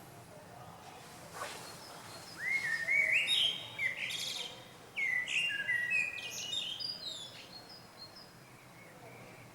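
A small songbird singing two quick phrases of short sweeping notes. The first starts about two and a half seconds in, and the second follows about five seconds in.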